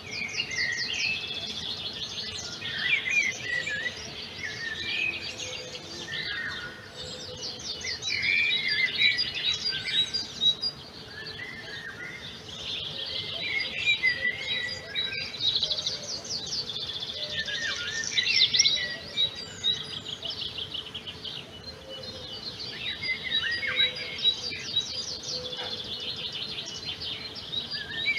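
Several songbirds singing at once, a dense chorus of overlapping chirps, whistles and rapid trills, with the trills loudest about 8, 18 and 24 seconds in. A faint steady low hum runs underneath.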